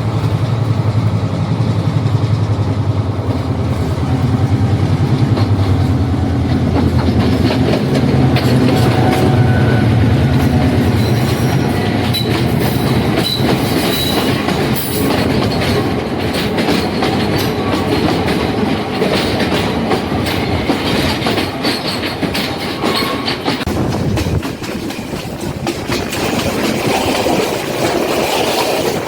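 Diesel passenger train running on the rails, its wheels clacking over the rail joints over a steady low engine drone. The drone drops away near the end while the clatter of the wheels goes on.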